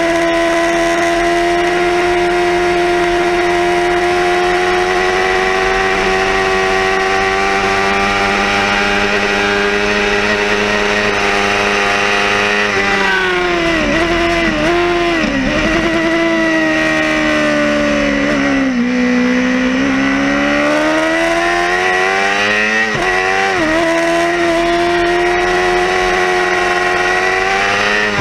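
Yamaha R6 (5EB) 600 cc inline-four racing engine at high revs, heard from on board the bike. Its pitch climbs slowly, then falls in quick steps as it shifts down about halfway through, bottoms out for a corner, and rises again through a quick gear change before holding high near the end.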